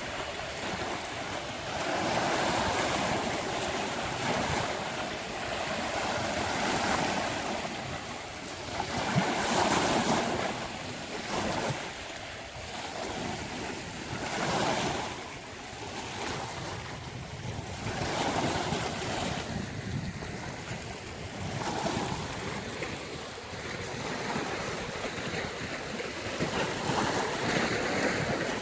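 Sea waves breaking on a beach, the surf swelling and falling away every few seconds, with wind noise on the microphone.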